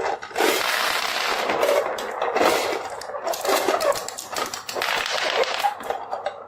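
Many marbles rolling and clattering down a marble run, a dense, continuous rattle of small clicks and knocks.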